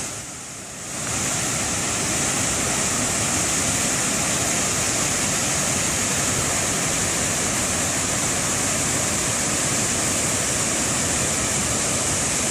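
Waterfall rushing, a steady wash of falling water, quieter for about the first second and then even throughout.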